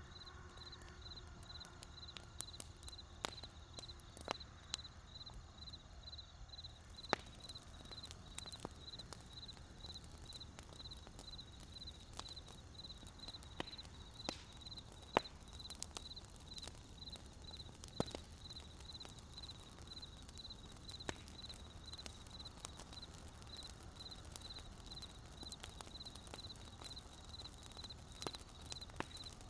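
Wood campfire crackling: scattered sharp pops and snaps at irregular intervals over a low steady rumble. A high, thin chirp pulses evenly a few times a second behind it.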